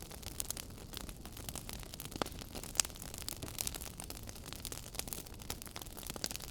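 Wood fire burning in a fireplace: a steady low rumble of flames with frequent small irregular crackles and a few sharper pops, the loudest just before the three-second mark.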